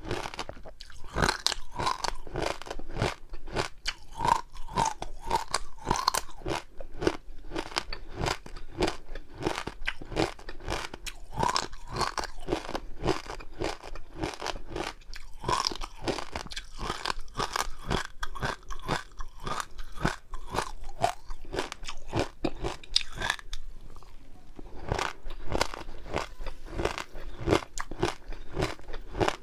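Close-miked chewing and crunching of crunchy food, in a rapid, irregular run of crisp crunches and mouth sounds.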